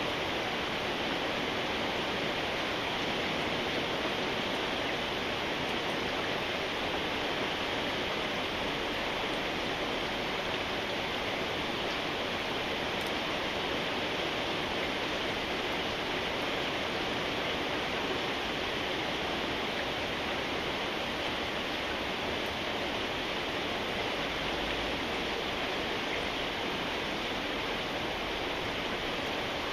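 Steady rain falling, an even rushing hiss with no single drops or gaps standing out.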